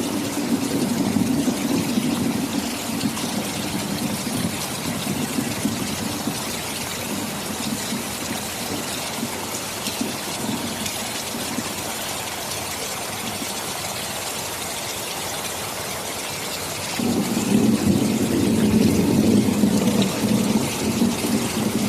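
Steady heavy rain, with a low rumble of thunder that dies away over the first several seconds and returns louder about seventeen seconds in.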